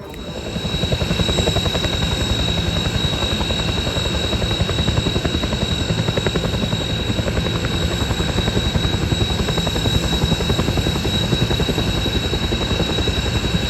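Helicopter running close by: a fast, steady rotor beat with a high, steady turbine whine above it, swelling over the first second and then holding level.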